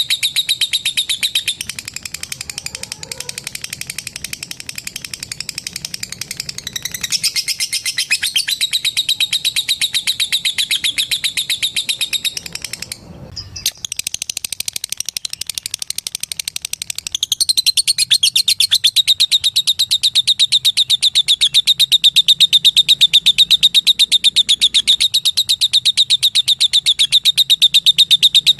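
Lovebird giving a long, fast, high-pitched chattering trill (the "ngekek"), rapid even pulses with barely a pause. It breaks off briefly about thirteen seconds in, then resumes and grows louder from about seventeen seconds.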